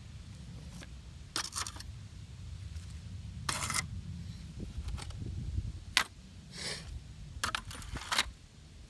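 Metal sockets clinking and clicking against each other as they are handled and loaded onto an RC truck: a string of short, irregular clinks, the sharpest about six seconds in, over a low rumble of handling noise.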